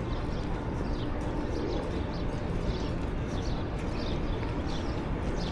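Small birds chirping in a flock, many short falling chirps overlapping, over a steady low background rumble.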